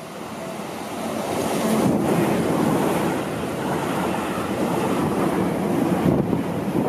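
Seibu 30000 series electric train passing close by: a rush of wheel and rail noise that builds over the first two seconds and then stays loud, with a few short knocks near the end.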